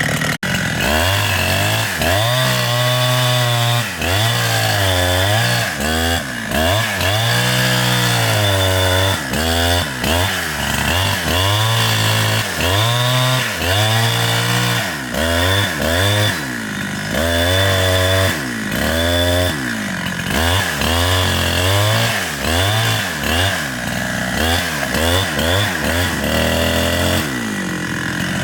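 Chainsaw cutting through a large tree, its engine pitch dropping under load and picking up again about once a second.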